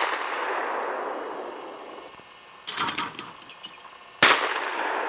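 Shotgun shots at clay targets: the echo of one shot dies away at the start, and a second sharp shot about four seconds in rings out in a long echo. A shorter, weaker sound comes a little over a second before the second shot.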